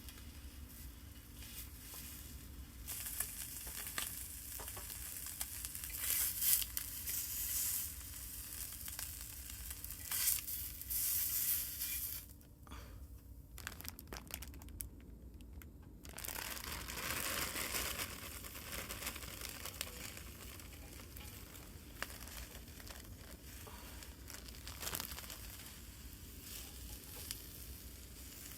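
Vegetables frying in a hot pan, a steady sizzle that swells and fades, with a short lull about halfway through.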